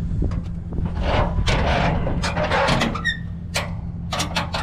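A steady low engine hum, with rustling and scraping of scrap being handled and several sharp metal clanks near the end.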